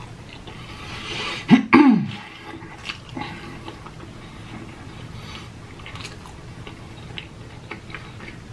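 Close-miked chewing of a cheeseburger: wet mouth sounds and small clicks. About a second and a half in, a short, loud vocal sound from the eater falls in pitch.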